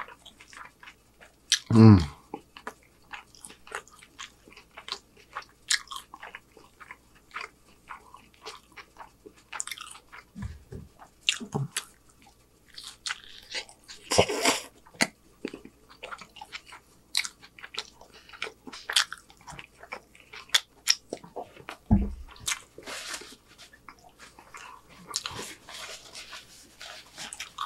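A man chewing a homemade chicken street taco in a corn tortilla: wet, clicking mouth sounds and smacks throughout, with a short hum about two seconds in. Near the end a paper napkin rustles as he wipes his hands.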